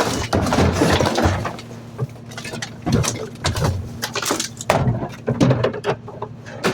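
Garbage truck running with a steady low hum, under a run of loud, uneven metal clanks and rattles as trash is loaded and worked into the hopper.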